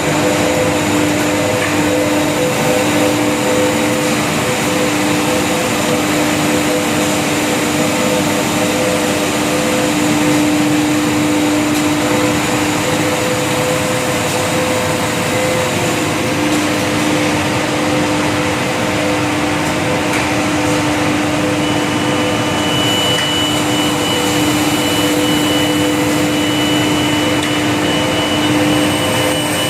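ABS/HIPS plastic sheet extrusion line running: a steady, loud machine whir with constant low hum tones, joined by a thin high whine about three-quarters of the way through.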